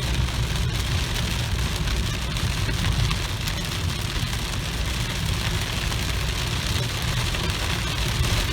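Heavy rain of a downpour beating steadily on a moving car, heard from inside the cabin over the low, steady rumble of the car's engine and tyres.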